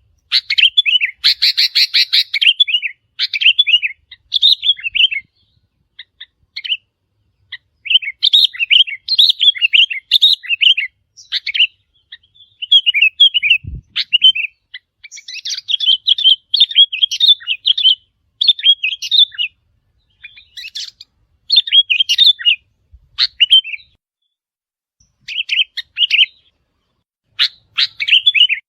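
Sooty-headed bulbul song: bursts of quick, bubbly chirping phrases repeated with short pauses between them.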